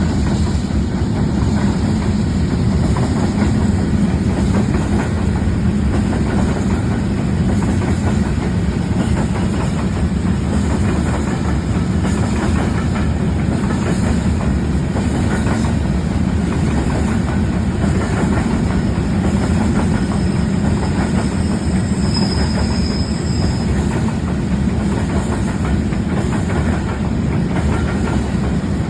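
Freight train running on the rails: a steady, loud rumble with the clatter of its wagons. A brief faint high-pitched tone rises above it about two-thirds of the way through.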